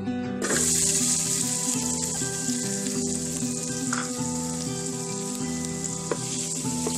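Food dropped into hot oil in a pan, sizzling loudly from about half a second in and then frying steadily, with a few light clicks of a utensil being stirred. Guitar music plays underneath.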